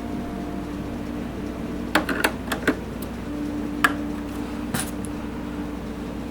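Plastic parts of an HP OfficeJet Pro 8600 printer clicking and knocking as it is taken apart: a scatter of sharp clicks between about two and five seconds in, over a steady low hum.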